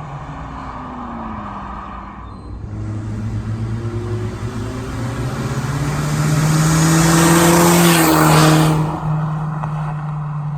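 Mercedes-Benz W204 C250's turbocharged four-cylinder engine, exhausting through an electric cutout that bypasses the rest of the exhaust, accelerating past. The engine note rises in pitch and grows louder to a peak about eight seconds in, then drops off as the car goes by.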